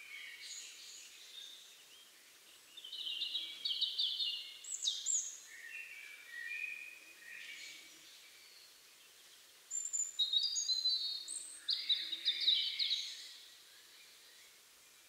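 European robin singing: several bursts of high, thin, quickly varied warbling phrases with short pauses between them. The loudest phrases come about three to five seconds in and again from about ten to thirteen seconds in.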